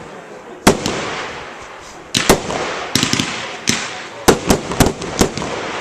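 Fireworks display shells bursting: a string of sharp bangs, one about a second in and then about ten more in quick succession from about two seconds on, with a noisy crackling haze between them.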